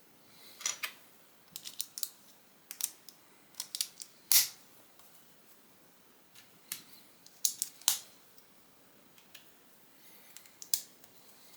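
Plastic Lego pieces clicking as they are handled and pressed together, a scatter of sharp little clicks at irregular intervals, the loudest a little over four seconds in.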